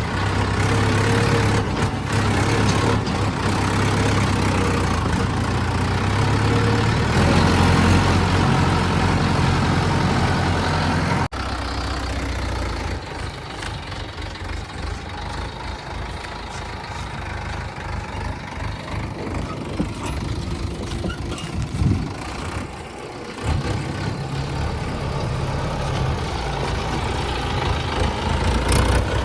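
Heavy diesel engine of a JCB 3DX backhoe loader running steadily. It runs loud and busy for the first eleven seconds or so, then drops abruptly to a quieter, lower running, with a couple of short knocks in the second half.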